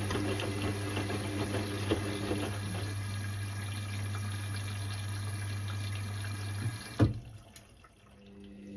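Water running through an Indesit IWC6165 washing machine with a steady low hum. It cuts off with a click about seven seconds in, after which it is nearly quiet.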